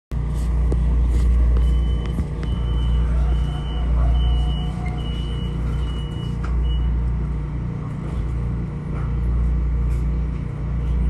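Steady low rumble inside a Metro-North M7A electric railcar, with a run of about seven short high beeps of the same pitch from about a second and a half in until about seven seconds in.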